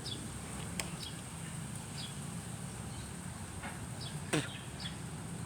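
Outdoor morning ambience: small birds chirping now and then over a steady low hum, with a couple of short clicks.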